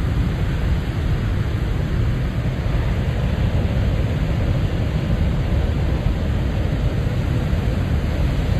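Big ocean waves breaking at high tide: a steady, unbroken surf roar, heaviest in the low rumble, with no single crash standing out.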